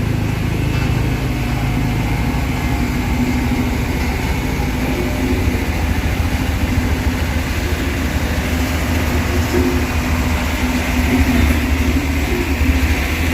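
Heavy diesel earthmoving machine engine running steadily under load, with a deep low rumble.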